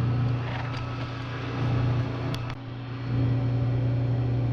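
Bridgeport milling machine running with a steady electric-motor hum, with a few light sharp ticks. The hum drops briefly just past halfway, then comes back.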